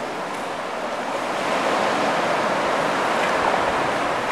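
Sea water washing and sloshing around a kayak inside a sea cave: a steady rushing noise that swells from about a second and a half in.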